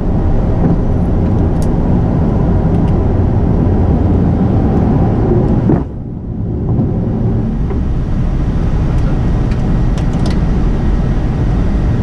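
Steady loud rumble of a Gulfstream G550 business jet's turbofan engines and airframe during the takeoff run. It dips suddenly about six seconds in and comes back within a second.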